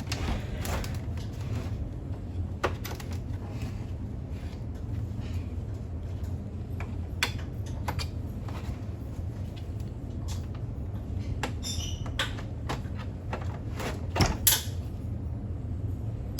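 Scattered clicks and knocks of parts being handled while working on a coffee machine, with two louder knocks close together near the end, over a steady low hum.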